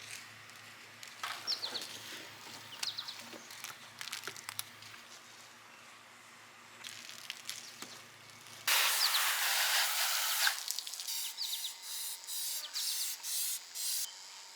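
Birds chirping over a faint steady hum outdoors; about two-thirds of the way in a loud spraying hiss starts suddenly, lasts about two seconds, then comes as a run of short spray bursts during car washing.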